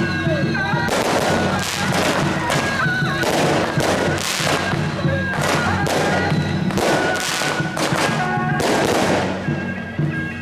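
Strings of firecrackers crackling in dense, repeated bursts over loud traditional procession band music led by a shrill reed horn.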